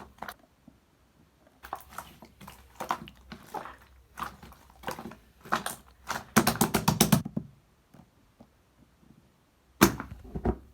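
Irregular tapping and knocking, with a quick run of about eight taps a little past the middle and a louder knock near the end.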